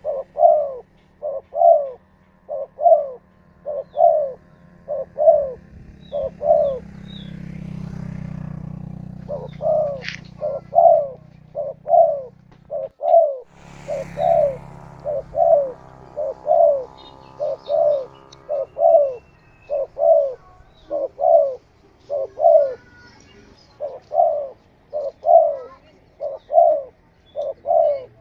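Spotted doves (tekukur) cooing, a steady run of short repeated coos. A low hum swells and fades in the middle.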